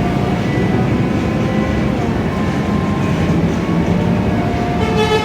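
Cabin noise inside a moving Scania K320iA CNG bus: a steady rumble from the engine and driveline with whining tones that rise and fall as it drives. Near the end, a short high-pitched tonal sound cuts in.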